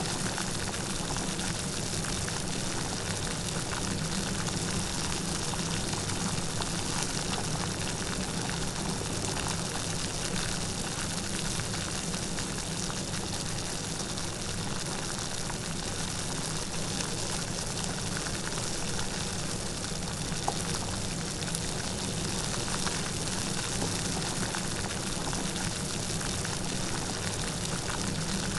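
Steady light rain falling, a continuous patter of drops with fine scattered ticks.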